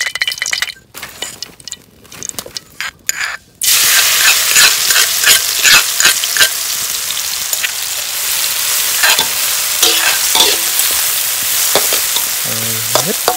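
A few clinks and taps on a pan, then about four seconds in a sudden loud sizzling starts as small creek fish go into the hot pan, and it carries on steadily while they fry.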